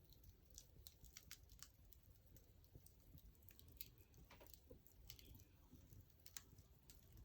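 Wood fire crackling faintly, with irregular small pops and snaps.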